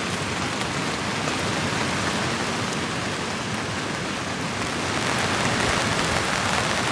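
Rain falling steadily on a tent, an even hiss of drops that grows a little louder about five seconds in.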